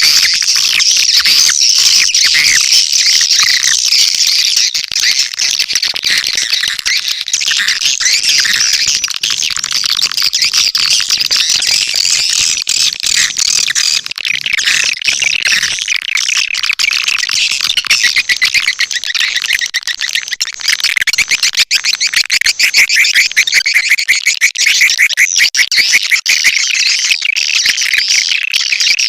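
Swiftlet lure call: dense, continuous high twittering and chirping of swiftlets, the kind of recording played to draw swiftlets into a nesting house. In the second half it turns into a faster, more regular chatter.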